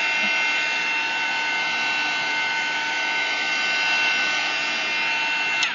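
Craft heat tool running with a steady blowing noise and a high whine, switched off at the very end, its whine sliding down as the fan winds down.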